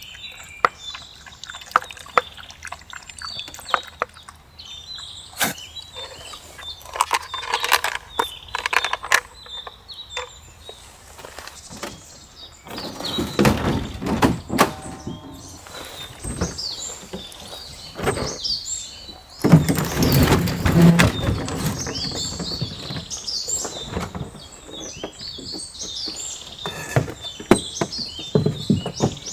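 Wild birds chirping, with frequent clicks, knocks and rustling of close handling. The handling is loudest about two-thirds of the way through.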